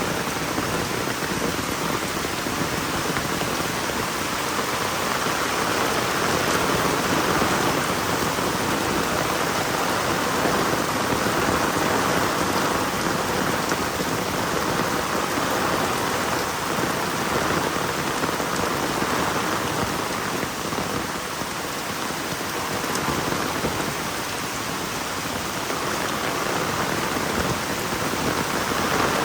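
Heavy rain falling and pattering on surfaces, a dense steady hiss.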